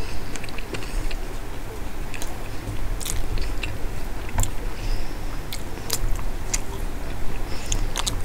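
Close-miked chewing of rice mixed with shredded Bombay duck (lote fish) curry, with scattered sharp wet mouth clicks, over a steady low hum.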